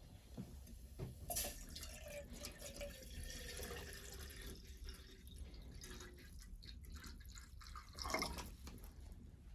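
Water pouring into a container with dripping and small splashes, and a louder swish near the end.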